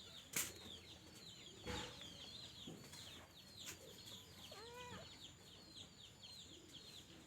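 Chickens: rapid, faint, high peeping chirps, several a second, with one longer arching call about two-thirds of the way through. Two sharp knocks come in the first two seconds.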